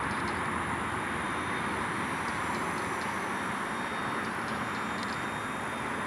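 Small electric RC helicopter (WLtoys V911) in flight: a steady rotor whoosh with a faint high motor whine.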